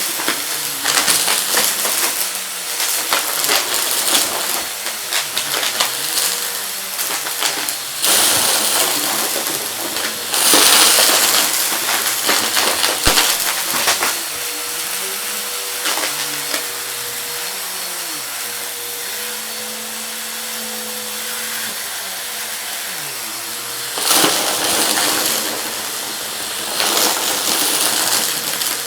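Vacuum cleaner running while hard debris rattles and clicks through it as it is sucked up. The motor's pitch wavers up and down. The clattering comes in loud stretches, with a calmer stretch in the middle.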